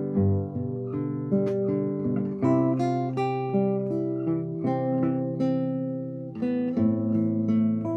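Solo classical guitar playing a slow fingerstyle arrangement, a plucked melody over ringing bass notes and chords.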